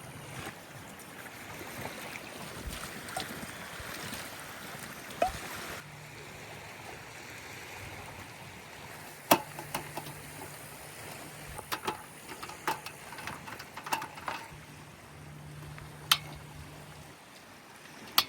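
Lakeside ambience: a steady wash of water and light wind, broken by scattered sharp clicks and knocks, with a faint low hum that comes and goes.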